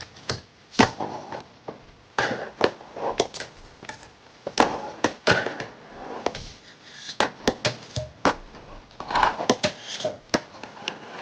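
Fingerboard ridden on a 3D-printed PLA ramp: irregular sharp clacks of the board popping, landing and striking the plastic, with short stretches of wheels rolling between them.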